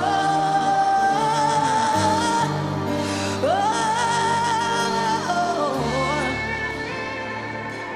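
Gospel worship song: a singer holds long, wavering notes with pitch slides, over instrumental accompaniment of sustained low chords.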